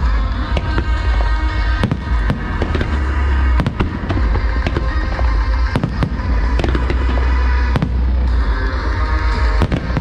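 Fireworks bursting in many rapid, irregular bangs over music with heavy bass played through loudspeakers.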